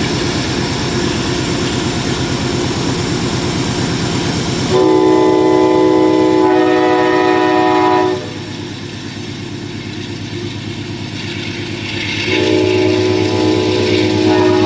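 Train running with a steady rumble while its air horn sounds twice, each blast a chord of several notes: one of about three seconds near the middle, and a second starting near the end and still sounding as it closes.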